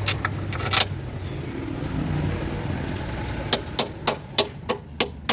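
Hand tools working a bolt on a car's front suspension: a few sharp metallic clicks, then from about three and a half seconds a regular run of sharp taps, about three a second, over a low steady hum.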